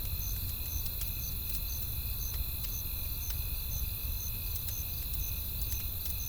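Campfire crackling, with scattered sharp pops over a low rumble. A cricket chirps steadily about twice a second over a steady high insect drone.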